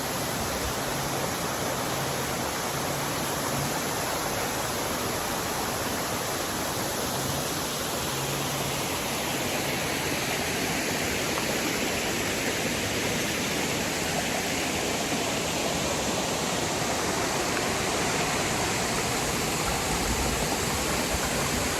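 Waterfall: a steady rush of falling water, an even wash of noise with no break.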